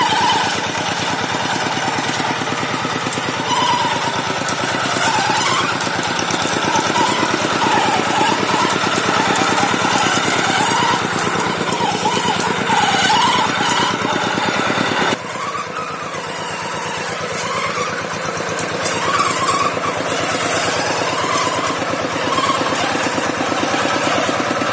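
Farm tractor engine running steadily with a wavering pitch, with a sudden drop in level about 15 seconds in.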